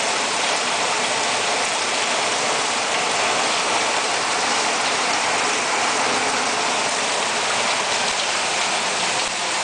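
Hailstorm: hailstones and heavy rain pelting down in a dense, steady downpour.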